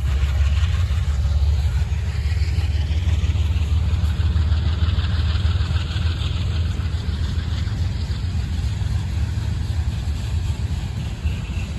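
CSX manifest freight train rolling past: a steady low rumble, with a hiss of wheels on rail that swells toward the middle and then eases off.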